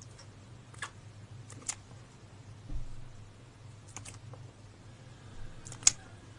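A few short, sharp clicks or taps at irregular intervals, the loudest near the end, with one dull low thump in between, over a low steady hum.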